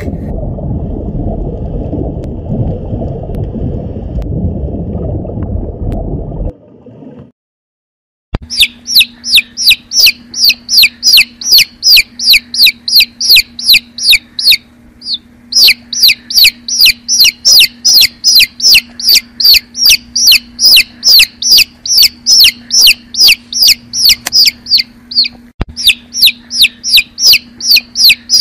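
Quail chicks peeping: a run of loud, high peeps, each falling in pitch, about four a second, with two short breaks. Before them come a low, steady rumble for about the first six seconds and a moment of silence.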